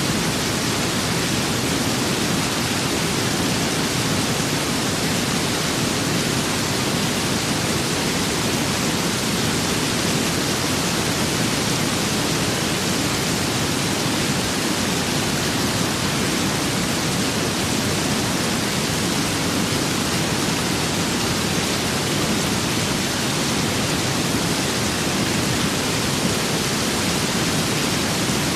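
Steady rain and wind ambience: an even, unbroken hiss with no single drops, gusts or changes standing out.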